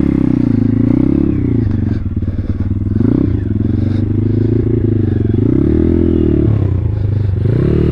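Thumpstar 140cc pit bike's single-cylinder four-stroke engine running hard under the rider, its pitch rising and falling with the throttle, climbing about a second in, again around three seconds in, and near the end.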